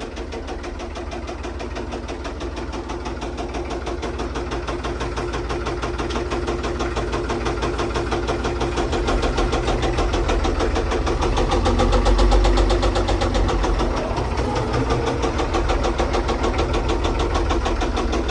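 Case 1030 tractor's six-cylinder diesel engine running with a noise from the top end: the front cylinder isn't firing, which the owner puts down to a stuck valve or a broken valve spring. The engine grows gradually louder, is loudest about twelve seconds in, then drops back a little.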